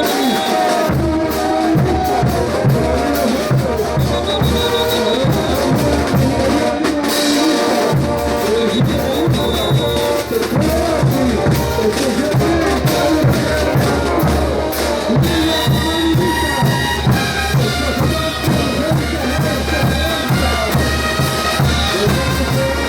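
Bolivian brass band playing ch'uta dance music: a brass melody carried by trumpets over a steady marching drum beat, continuous and loud.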